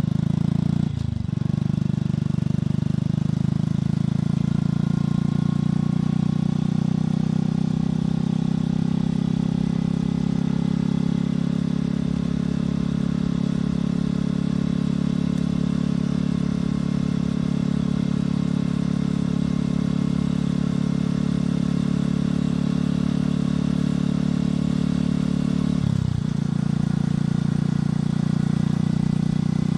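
Motorcycle engine and exhaust running steadily while riding at a constant speed, with a brief dip in the engine note about a second in and again near the end as the throttle eases off and picks up again.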